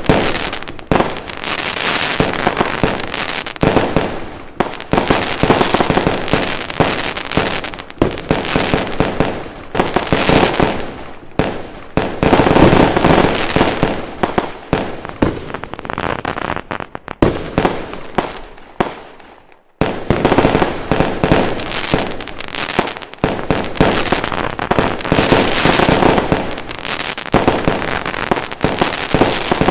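Fireworks going off in a dense, continuous barrage of rapid bangs and crackling. About two-thirds of the way through, the barrage dies away almost to nothing, then starts again abruptly.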